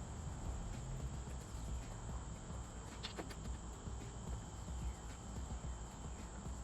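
Crickets chirping steadily outdoors, with a single brief click about three seconds in.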